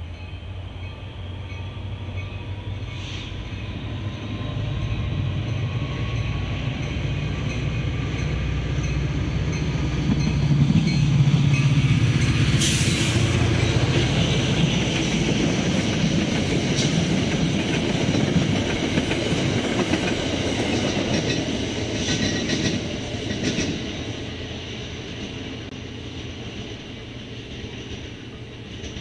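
A train passing on the main line: a low rumble that builds to its loudest about halfway through, with scattered sharp clicks from the wheels and cars, then fades as the train moves away.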